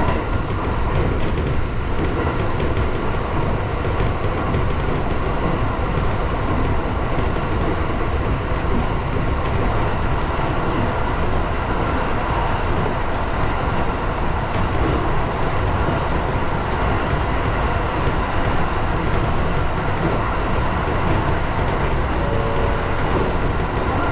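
701-series electric train running along the track at speed, heard from inside the driver's cab: a steady, even rumble of wheels on rail and running gear.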